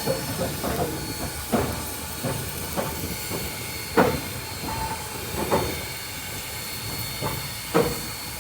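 Steam locomotive hissing steadily, with sharp metallic clanks at irregular moments; the loudest come about four seconds in and near the end.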